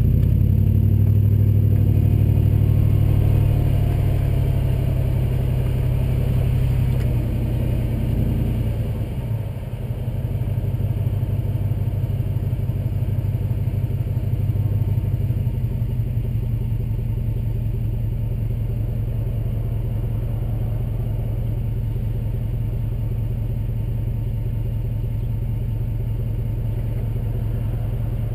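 The Borla exhaust on a 2005 Jeep Grand Cherokee's 5.7L Hemi V8, held at raised revs for several seconds. About nine seconds in it drops back and then settles into a steady, rhythmic idle.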